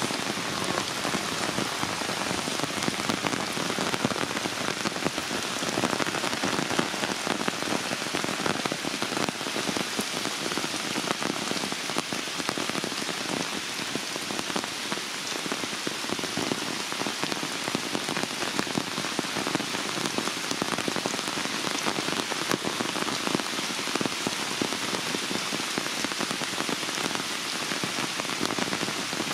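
Heavy rain falling steadily on leaves and a tree, an even, unbroken downpour.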